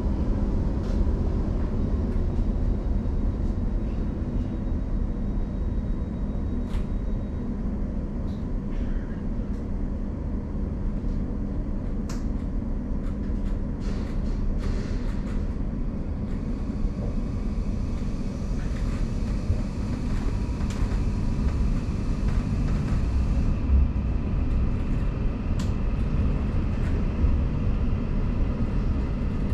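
Interior of a Class 717 electric multiple unit under way through a tunnel: a steady low rumble of wheels on rail, with scattered clicks and knocks, and a faint whine that comes in about halfway through.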